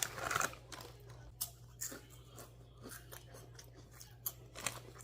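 Potato chips being chewed close to the microphone: a run of irregular sharp crunches, loudest in the first half-second.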